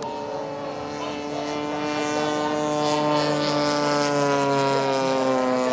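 Engine of a large-scale Ultra Stick radio-control model airplane in flight, a steady propeller drone that slowly drops in pitch as it grows louder.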